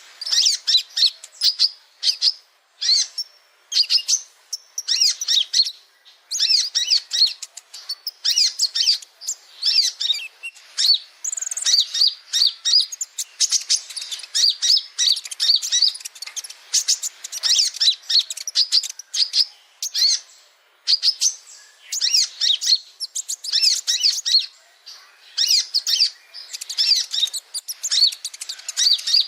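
Male sunbird (the 'kolibri ninja' of Indonesian bird keepers) singing: rapid runs of high, sharp chirps and twitters in phrases of a second or two, with brief pauses between them.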